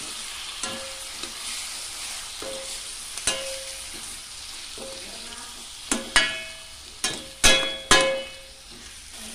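Chicken pieces and shallots frying in oil in a stainless steel kadai, sizzling steadily while a spatula stirs and scrapes them. Several ringing clanks of the spatula striking the steel pan come through, the loudest in the second half.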